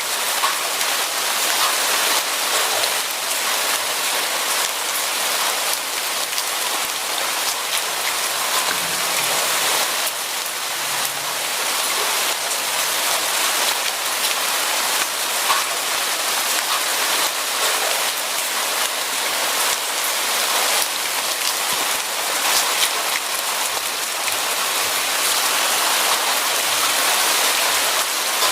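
Steady rain falling on a surface, a dense even hiss full of small drop ticks.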